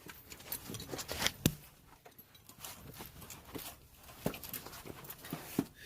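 Irregular light clicks, taps and rustling of handling and shuffling around, with a sharper knock about one and a half seconds in.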